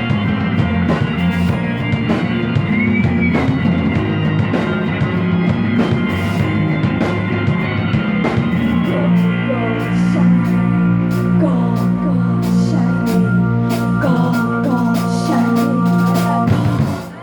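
Psychedelic rock band playing, with a drum kit keeping time under long held guitar or keyboard notes; the music breaks off just before the end.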